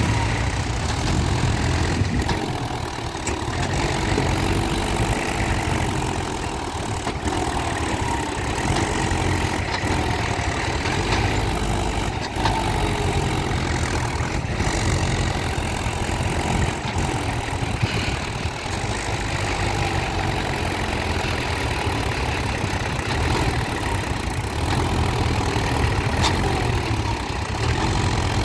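Mahindra Yuvo tractor's diesel engine running continuously, with a strong low rumble and no pauses.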